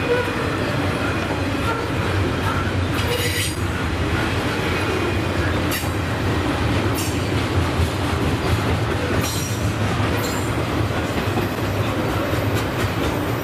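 Double-stack container train's well cars rolling steadily past, a continuous rumble of steel wheels on rail. Brief high-pitched wheel squeals cut in several times, the clearest about three seconds in and again about nine seconds in.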